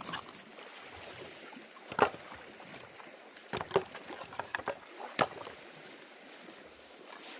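Scattered sharp knocks and light splashes on a kayak on the water. The loudest knock comes about two seconds in, and a few more follow over the next few seconds.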